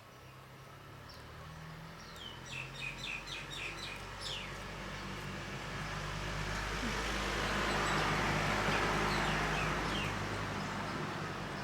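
A bird calls a quick run of about eight falling chirps a couple of seconds in. Then a vehicle passes by, its noise swelling to a peak about eight seconds in and fading away, over a steady low hum.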